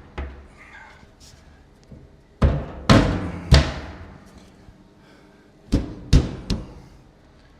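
Six heavy knocks on the hollow aluminium fuel tank, in two groups of three, each ringing out with a booming, drum-like tail, as the cut-off end is worked back onto the tank.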